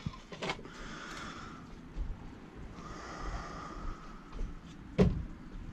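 Quiet handling noises, faint rustling and light contact sounds, with one sharp knock about five seconds in; the vacuum's motor is off.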